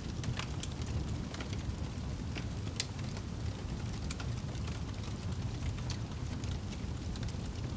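Wood fire crackling: a steady low rumble of flame with scattered sharp pops and snaps throughout.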